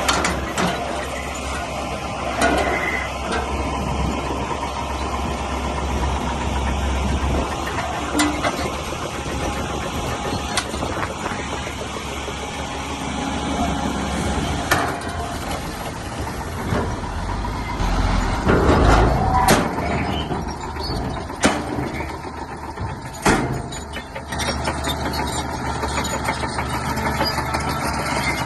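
Shantui bulldozer's diesel engine running steadily as it pushes stone, with sharp knocks and clanks scattered through it and a louder rumbling cluster about two-thirds of the way in.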